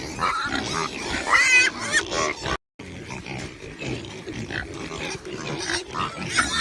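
Pigs grunting and squealing, with one loud high squeal about a second and a half in. After a short break near three seconds, quieter grunting goes on.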